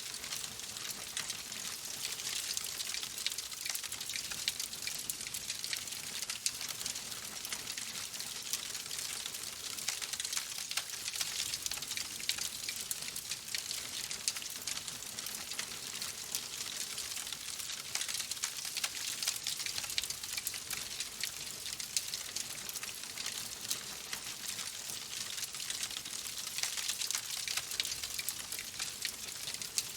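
Fireplace wood fire crackling steadily: a dense run of small snaps and pops over a soft hiss.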